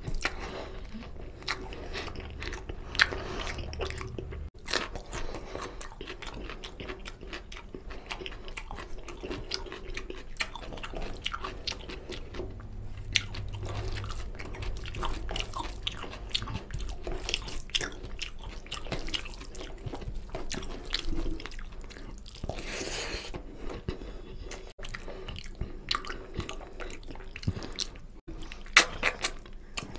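Close-miked chewing and biting of mutton paya (goat trotter curry) with rice. It is a dense run of short mouth clicks and smacks, with a few louder bites about three seconds in and near the end.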